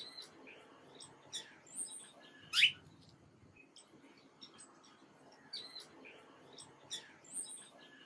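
Small songbirds chirping: short, scattered high chirps and tweets, with one loud, sharp rising chirp about two and a half seconds in.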